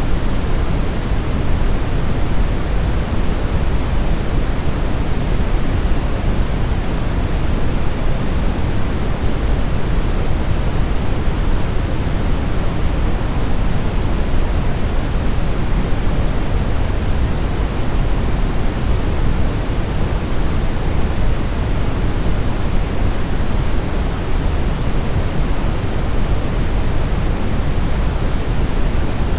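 Brown noise: a steady, even rushing hiss weighted toward the low end, with no rhythm or change.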